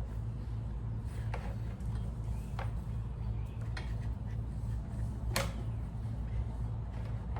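A few light clicks and taps, the loudest about five seconds in, from small parts and tools being handled during carburetor work, over a steady low hum.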